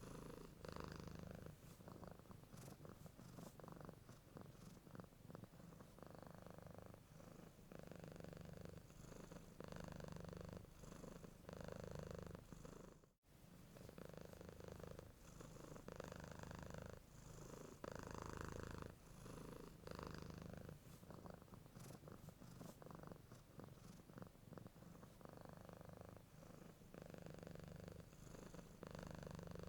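Domestic cat purring, faint and low, the rumble swelling and easing in a slow, even rhythm with each breath in and out. It cuts out for a moment about halfway through.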